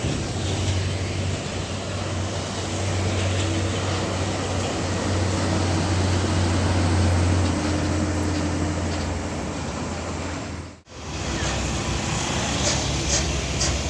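Heavy road traffic dominated by the steady low drone of a big diesel truck engine running close by. The sound cuts out abruptly for a moment about eleven seconds in, then the traffic noise resumes.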